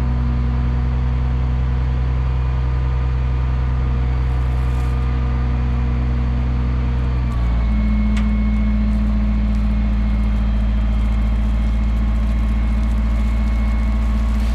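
An engine running steadily, its speed stepping up about halfway through.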